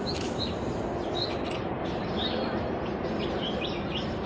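Small birds chirping, short high calls every second or so, over a steady rush of outdoor background noise.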